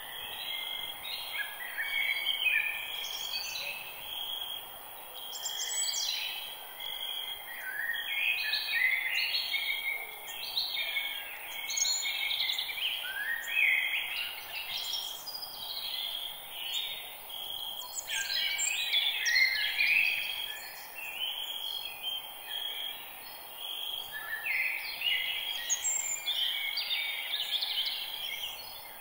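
A chorus of forest birds singing, many short chirping and trilling phrases overlapping and coming in waves every few seconds, over a steady high-pitched drone.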